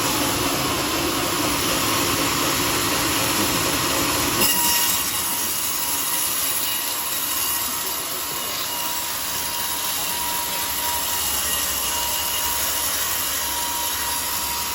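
Sawmill saw cutting a teak log: a loud, steady mechanical noise. About four and a half seconds in, the deeper rumble drops away and a thin steady tone with more hiss takes over.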